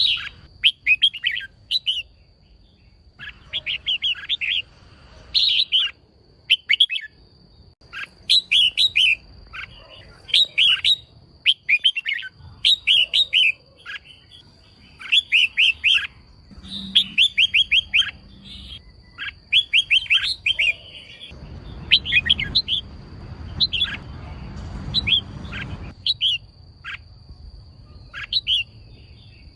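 Female red-whiskered bulbul calling in quick bursts of short, sharp chirps, a cluster every second or two. A faint steady high tone runs beneath the calls, and a soft hiss rises in the second half.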